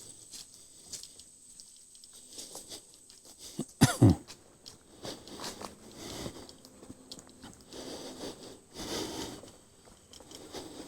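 A single short cough about four seconds in, the loudest sound, over softer footsteps and rustling on the trail.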